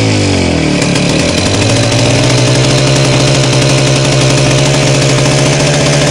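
DT-75 crawler tractor's small two-stroke starting engine (pony motor) running loudly. Its pitch sags sharply in the first second, then picks up again and holds steady.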